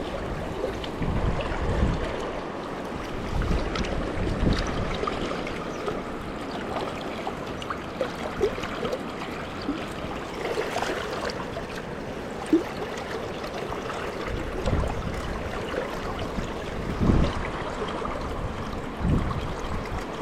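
River water rushing steadily, with a few brief low thumps on the microphone.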